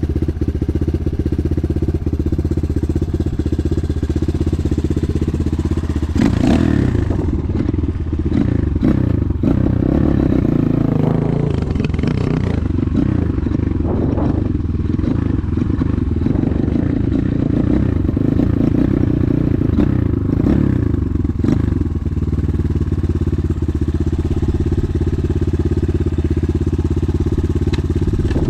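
250 cc enduro motorcycle engine running, steady at first, then with shifting revs and clattering knocks from about six seconds in until about twenty-two seconds in, before settling back to a steady run.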